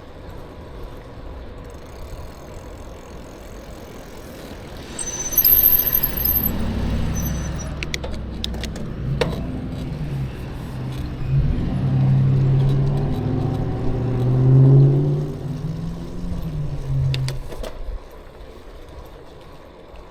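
Motor vehicle engine close by, heard from a bicycle: after a few seconds of quieter road noise an engine note comes up with a brief high squeal, then rises and falls in pitch for about twelve seconds before fading back to traffic hum.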